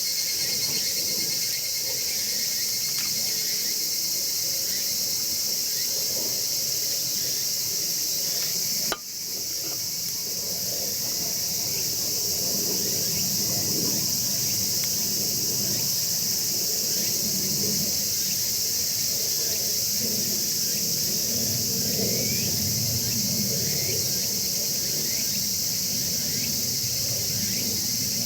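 Steady high chorus of insects, with a fire in a chiminea crackling faintly beneath it and one sharp click about nine seconds in.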